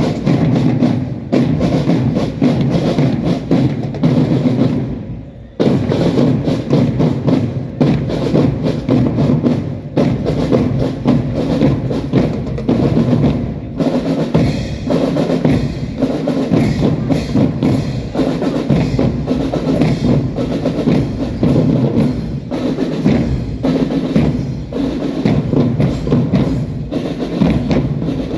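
Indonesian school marching drum band playing: snare, tenor and bass drums beating a fast, dense rhythm, with drum rolls. The sound drops away briefly about five seconds in and comes straight back.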